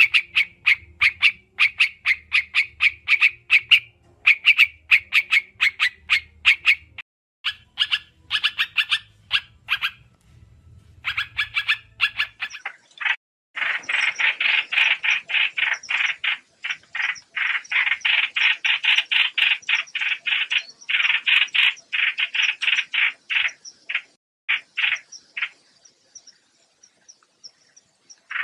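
Trao trảo (white-eye) lure call: quick trains of short chattering notes, several a second, with a brief pause about a third of the way in and a denser, louder run through the second half. A faint low hum lies under the first part.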